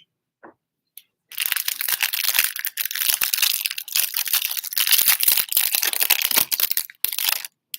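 Plastic wrapping on trading card packaging being torn open and crinkled, a dense run of crackling that starts about a second in and stops shortly before the end.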